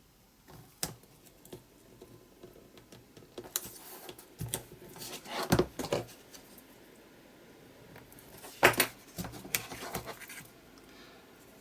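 Paper and card being handled: scratchy rustling and crinkling, with a sharp tap just under a second in and louder clusters of crackle around five to six seconds in and again near nine seconds in.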